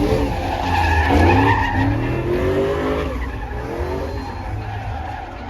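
Truck engine revving, with tires squealing and skidding.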